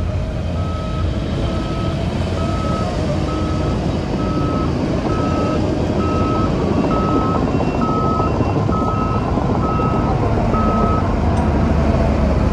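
Reversing alarm on a heavy construction machine beeping steadily, just under two beeps a second, over a diesel engine's low running rumble; a second, fainter and higher-pitched alarm beeps along midway, and the beeping stops near the end.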